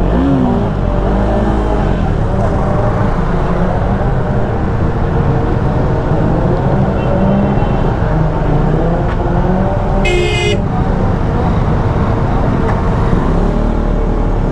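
Several motorcycle engines running and being revved together, with a short horn toot about ten seconds in.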